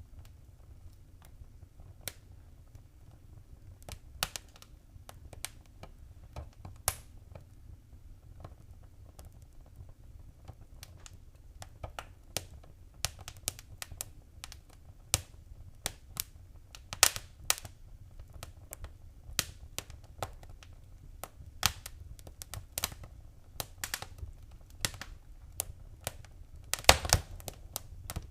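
Wood fire in a fireplace crackling and popping. Irregular sharp pops come over a low steady rumble, sparse at first and more frequent from about halfway through.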